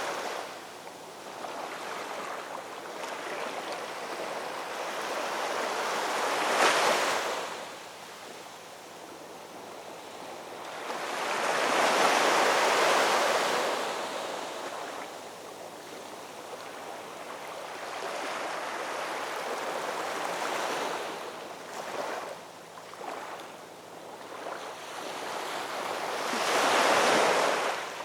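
Ocean waves breaking and washing back, a steady rush that swells and fades with each wave; three bigger waves crash, the last near the end.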